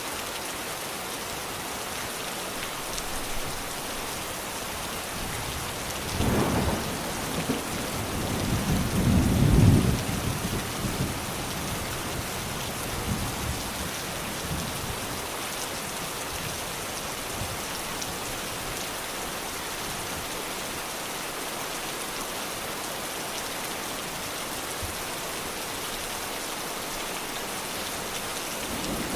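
Steady heavy rain with thunder rumbling: a first roll about six seconds in, then a louder, longer rumble around eight to ten seconds that dies away, with faint further grumbles after.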